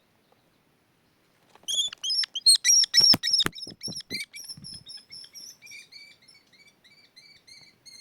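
Common kestrel calling: a rapid series of high, shrill repeated calls starting about a second and a half in, which gradually fade toward the end. A few loud sharp knocks come near the middle.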